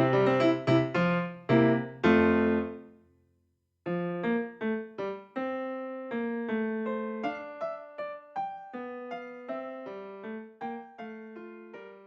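Solo piano music: a busy passage ends on a held chord, a brief silence follows, then a quieter melody of single notes that slowly fades away.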